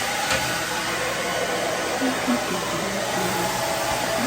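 Handheld hairdryer running steadily on its low, cool setting, blowing air.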